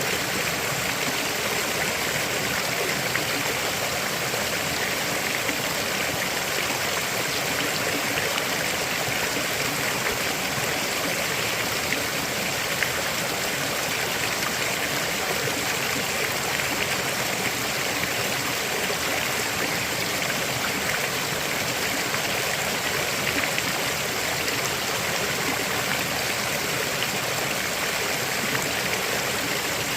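River water flowing and rushing steadily over rocks, a constant even roar of running water.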